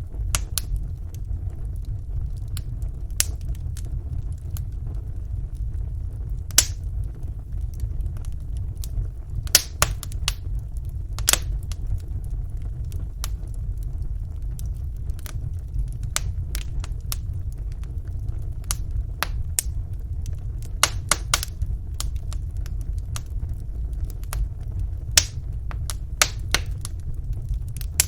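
Wood fire burning in a fireplace: a steady low rumble with sharp, irregular crackles and pops, a few of them louder snaps.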